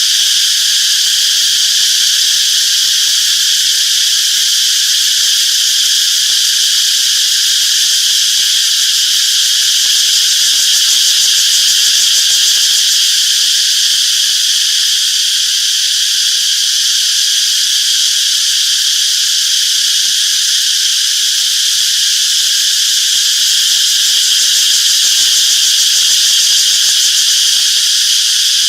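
A dense chorus of cicadas buzzing, a steady high-pitched drone that never breaks.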